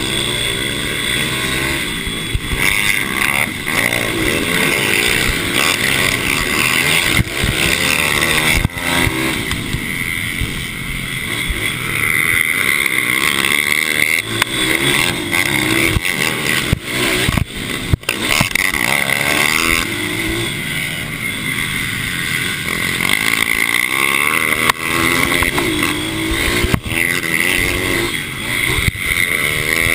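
Several mini bike engines racing, revving up and easing off again and again as the bikes go round the track, their pitch rising and falling and overlapping.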